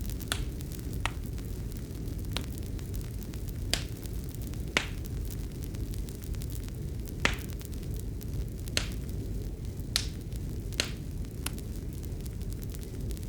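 Fireplace fire crackling: about ten sharp, irregular pops over a steady low rumble.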